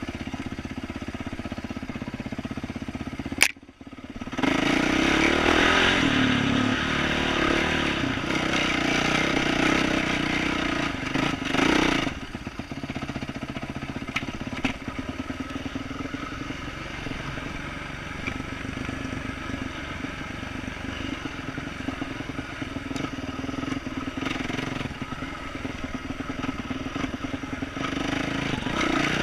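2012 Yamaha YZ450F 450cc four-stroke single-cylinder dirt bike engine, through an aftermarket exhaust, running on the trail. There is a sharp knock about three and a half seconds in and a brief drop. The engine then runs louder under throttle for about eight seconds and settles back to a steadier, quieter pull.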